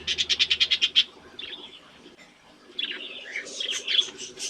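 Budgies chirping: a fast, even run of about a dozen short chirps in the first second, a brief lull, then a busy chattering warble from about three seconds in.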